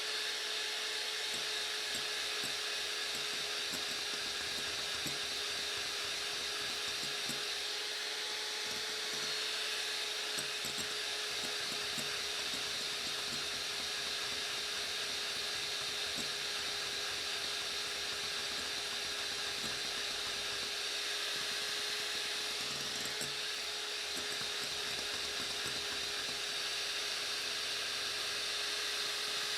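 Electric hand mixer running steadily at an even pitch, its beaters whipping eggs and sugar into a thick foam.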